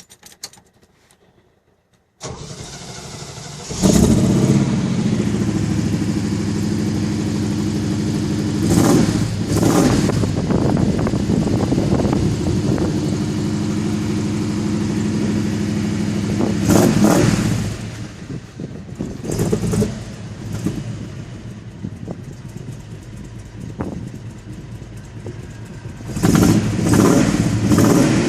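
1983 Jeep CJ8's 258 cubic-inch inline-six with a two-barrel carburettor, started cold: the starter cranks for about a second and a half, then the engine catches and runs at a fast idle. The throttle is blipped several times, and the engine runs lower for a while past the middle before revving up again near the end.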